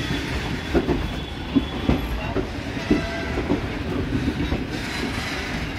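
Indian Railways train running on the rails: a steady low rumble with irregular clacks and knocks from the wheels.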